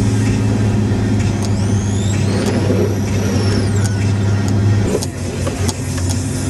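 Pickup truck's engine and drivetrain droning steadily as heard from inside the cab while driving in deep snow, easing off about five seconds in. A thin high tone rises and falls back over the middle of the stretch.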